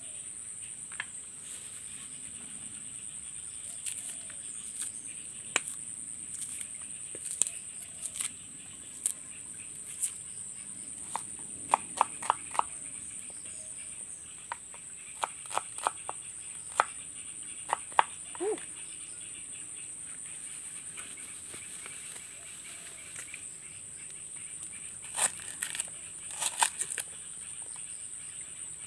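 Steady high-pitched insect buzz, with scattered sharp clicks and taps of hand food preparation: garlic knocking into a glass bowl and a cleaver chopping on a leaf. The clicks come in clusters around the middle and again near the end.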